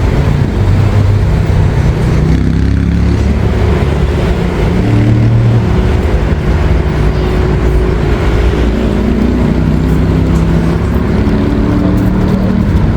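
A motor vehicle running close by, with a heavy low rumble and a motor pitch that shifts up and down in steps.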